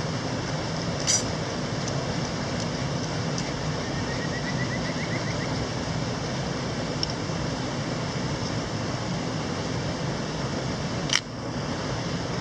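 Steady rushing of a mountain stream, with a light click about a second in and a sharp click near the end.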